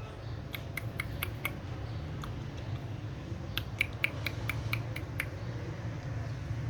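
A parrot making short, high clicking chirps, several a second, in two runs with a pause between.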